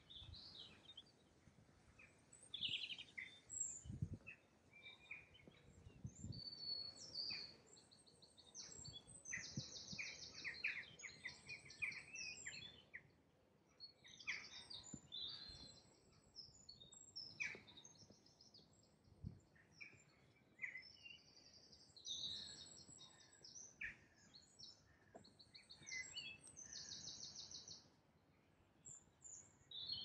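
Songbirds singing: a mix of chirps, short whistled glides and fast trilled phrases of rapidly repeated notes, coming and going throughout. A few soft low thumps come in the first seconds.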